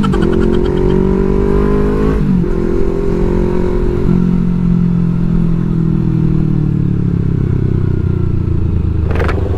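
Yamaha R3's parallel-twin engine running under way. Its pitch breaks and drops at a gear change about two seconds in, then falls slowly as the bike eases off and slows.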